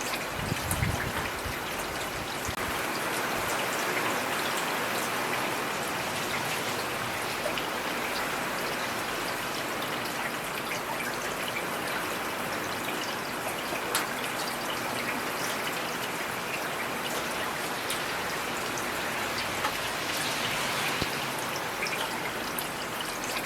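Heavy rain falling steadily: a dense, even hiss with scattered sharp ticks of individual drops, and a brief dull low thud about a second in.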